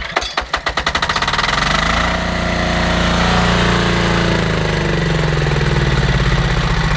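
Loncin 10 hp single-cylinder diesel engine on a belt-driven pressure washer catching from a pull start. It fires in rapid knocks that pick up speed over about two seconds, then settles into steady running with a diesel knock.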